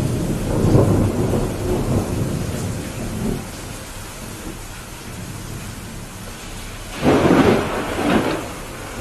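Steady rain with thunder: a low rumble that fades out over the first three seconds, then a sharper, louder thunderclap about seven seconds in that dies away a second or so later.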